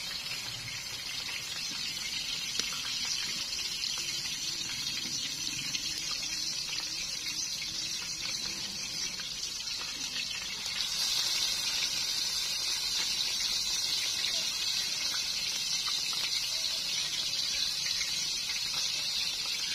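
Chapli kababs sizzling steadily as they shallow-fry in hot oil in a karahi. The sizzle gets louder about eleven seconds in, when a fresh raw patty is laid into the oil.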